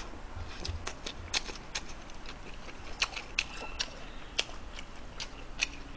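Close-miked chewing of a mouthful of steamed flower bun wrapped around stir-fried pepper and pork (gochu japchae), with many sharp, irregular wet mouth clicks.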